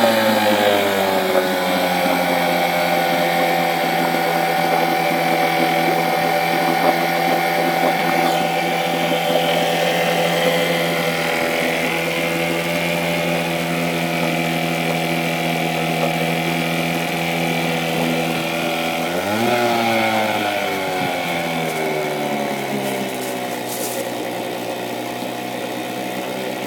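1973 Evinrude 4 hp two-stroke outboard motor running steadily on its first run after being stripped and cleaned. Right at the start it settles down from a higher rev, and about twenty seconds in it revs up briefly and drops back to a steady run.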